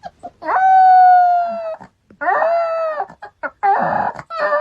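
An animal's long, drawn-out pitched call, held about a second and a half and sagging slightly in pitch, followed by a shorter call and then several brief, broken cries.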